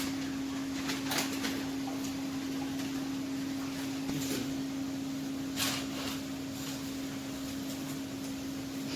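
A steady, single-pitched machine hum, with a few faint clicks over a low background hiss.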